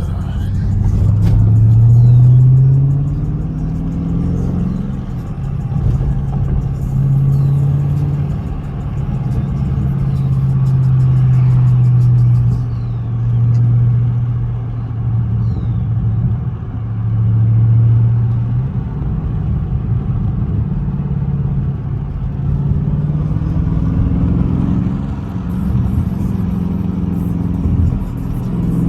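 Dodge Scat Pack's 392 Hemi V8 running under way, its note climbing in pitch as it accelerates in the first couple of seconds, then holding a steady drone with a few swells of throttle. It eases off about two-thirds of the way through and picks up again near the end.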